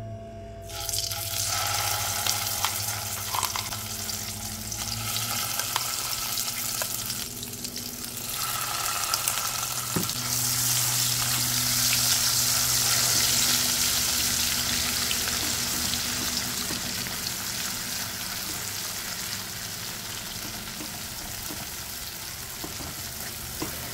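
Wet ground masala paste sizzling as it is dropped into hot oil in a non-stick kadai, then frying while a spatula stirs it. The sizzle starts about a second in, is loudest about halfway through, then settles to a steady frying hiss.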